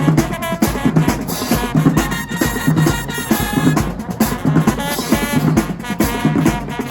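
High school marching band playing: brass horns holding sustained notes over a drumline with steady bass and snare drum hits.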